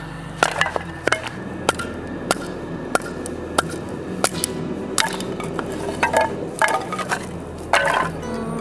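Sharp knocks, about one every two-thirds of a second, with a quicker cluster near the end, over background music with sustained notes.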